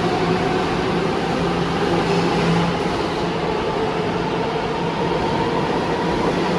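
New York City subway train running through the station: a steady, loud rumble with a low, steady motor tone that stops about three seconds in.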